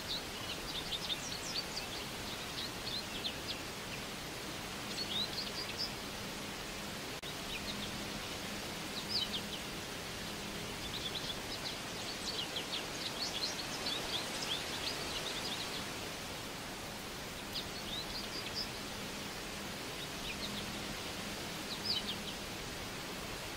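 Small birds chirping in quick clusters of short, high notes that come and go every few seconds, over a steady outdoor background hiss.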